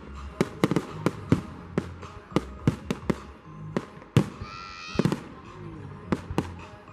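Fireworks display: a rapid, irregular string of sharp bangs and cracks, several a second, with music playing underneath.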